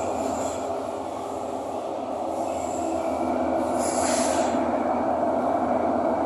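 Thomson-East Coast Line metro train running between stations, heard from inside the car: a steady rumble of wheels and motors, with a brief high-pitched hiss about four seconds in.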